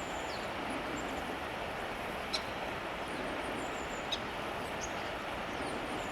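Steady rush of flowing river water, with a few faint, short high bird calls and two brief sharp ticks over it.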